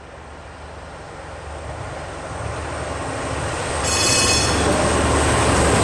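A train running and drawing closer, its rumble growing steadily louder, with a brief high-pitched wheel squeal about four seconds in.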